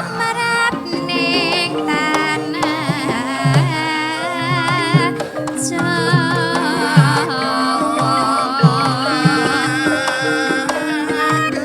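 Javanese gamelan music: held metallophone notes under frequent low hand-drum strokes, with a high wavering melody that sounds like a voice singing.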